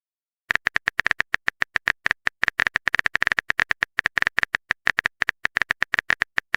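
Typing sound effect: a rapid, uneven stream of keyboard clicks, starting about half a second in.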